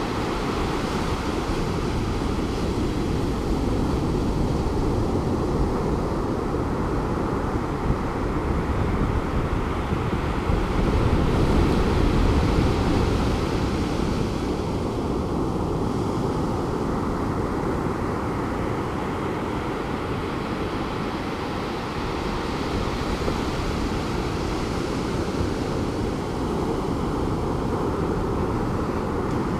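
Pacific Ocean surf breaking on the beach from a short distance: a steady rush of waves that swells and ebbs as each wave washes in, loudest a little before the middle.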